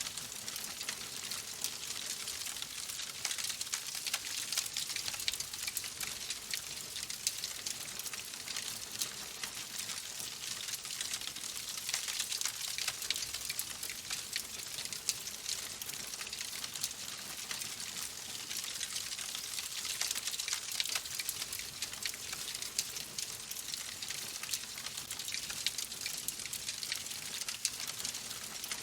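Fireplace fire crackling: a steady hiss full of small, dense pops and snaps.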